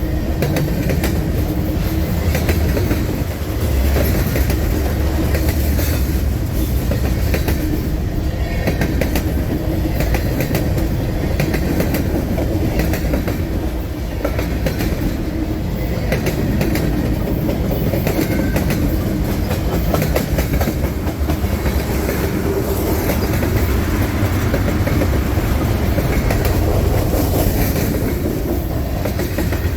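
Long freight train rolling past close by: a steady rumble of cars, with wheels clicking over rail joints in a continuous clickety-clack.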